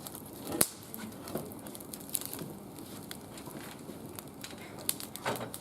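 Wood fire burning in a steel barbecue grill, crackling with scattered sharp pops, the loudest about half a second in.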